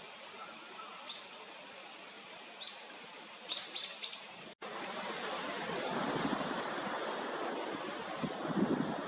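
Varied tit giving short high chirps: single notes about a second in and again near the middle, then a quick run of three. About halfway through, the sound cuts to a louder steady rushing noise with a few low rumbles.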